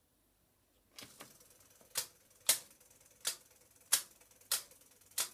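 Hoover washing machine starting its wash programme: a faint hum comes on about a second in, with a series of sharp mechanical clicks, six loud ones spaced roughly every half second or more.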